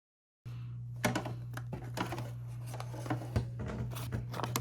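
Embroidery machine running with a steady low hum and irregular clicks and taps, starting about half a second in.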